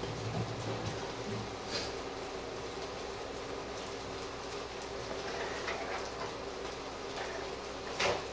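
Sardine, onion and chilli mixture frying in a wok, sizzling steadily with small scattered crackles and one louder pop about eight seconds in.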